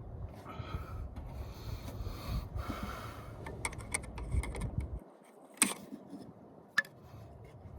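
A man breathing hard through his nose over rubbing and handling noises, with two sharp clicks in the second half.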